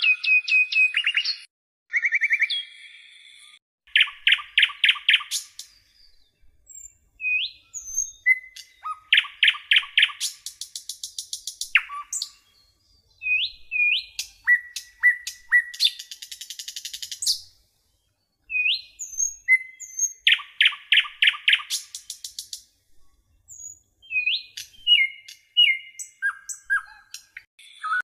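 A bird singing: phrases of rapid chirping trills alternating with short rising chirps, separated by brief pauses.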